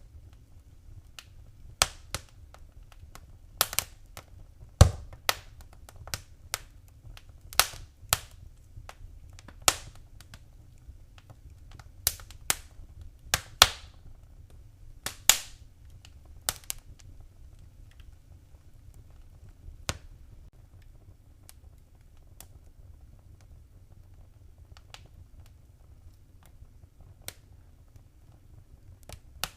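Fireplace wood fire crackling, with sharp pops about once a second that thin out to only a few in the second half, over a low, steady rumble.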